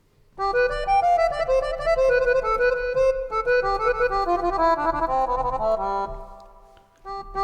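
Sampled accordion sound from an oriental SoundFont playing a melodic phrase over held notes, with reverb added. The phrase fades out about six seconds in, and a sustained chord starts just before the end.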